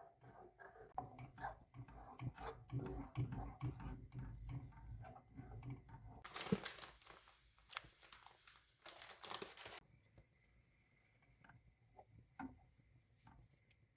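Close handling sounds: crinkling and rustling with light taps, then a steady hiss lasting about three seconds, then a few scattered ticks.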